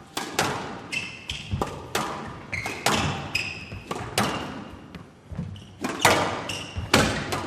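Squash rally: the ball cracking off rackets and the court walls about once or twice a second, with short high squeaks of court shoes on the floor between the hits.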